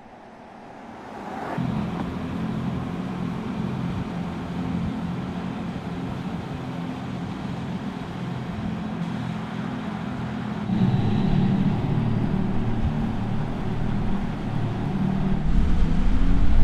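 Mercedes-AMG EQS 53 electric car driving, its artificial drive sound humming over road noise. It sets in about a second and a half in, gets louder about eleven seconds in, and rises again near the end as the car speeds up.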